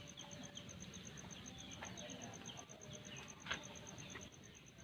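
Faint background ambience: a steady, fast-pulsing high chirping, with scattered short chirps and one light click about three and a half seconds in.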